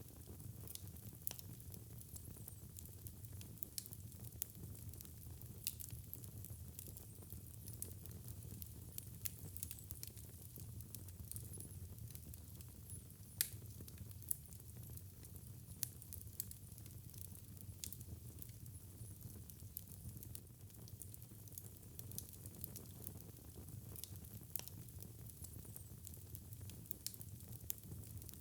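Wood fire burning in a fireplace: a soft steady low rumble of flames with frequent irregular crackles and pops, one sharper pop about halfway through.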